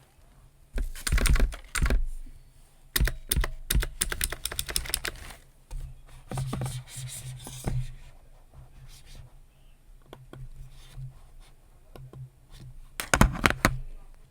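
Typing on a computer keyboard in irregular bursts of keystrokes with short pauses. The loudest runs come about a second in and again near the end.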